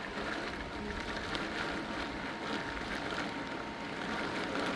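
Steady hiss of heavy thunderstorm rain and wind, with a few faint ticks.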